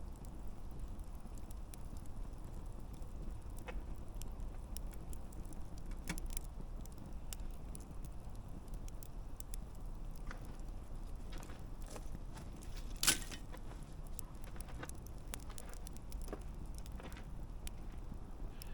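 Wood campfire burning, with scattered crackles and small pops over a steady low rush, and one sharp loud pop about thirteen seconds in.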